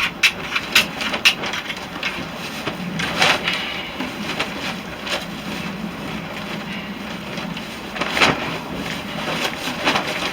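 Sharp, irregular strikes of a steel striker on flint, about half a dozen, with a gap of a couple of seconds in the middle. Behind them is the steady noise of wind flapping a tarp.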